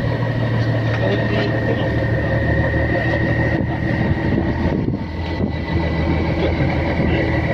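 Fishing boat's engine running steadily, a low hum with a constant high whine over it.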